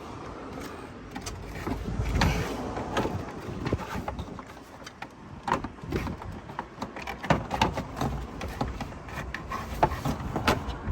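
Irregular clicks, knocks and light rattles of parts being handled, several a second in places. No engine is running.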